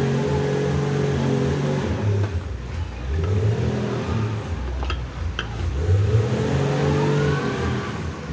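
Wheel loader's diesel engine running, its revs shifting up and down, with a couple of sharp clicks about five seconds in and a whine rising in pitch near the end.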